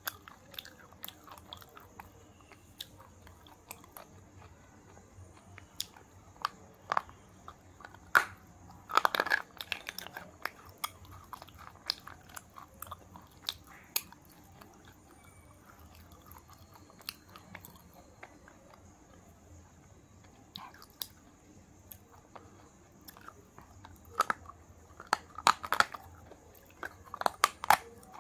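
KitKat wafer bar being bitten and chewed close to the microphone: scattered crisp clicks and crunches, louder clusters of crunching about nine seconds in and again near the end.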